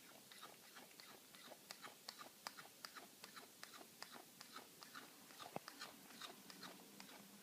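Domestic cat chewing a piece of steak: fast, irregular clicks of the mouth and teeth, about four or five a second, one louder click about five and a half seconds in. This is the cat's random chewing noise.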